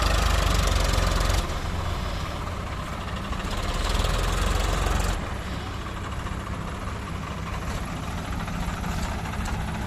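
Tractor diesel engines running steadily with a deep rumble. The sound drops abruptly about a second and a half in and again about five seconds in.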